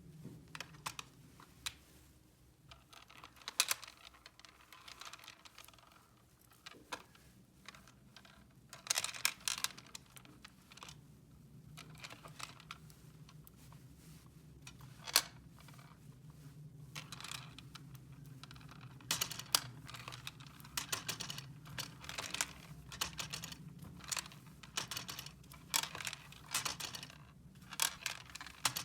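Small plastic toys being handled: irregular light clicks, taps and short rustles, over a faint steady low hum.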